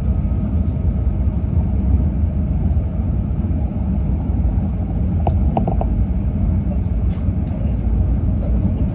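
Cabin noise of an E6 series Shinkansen train in motion: a steady low rumble of the running train, heard from inside the passenger car.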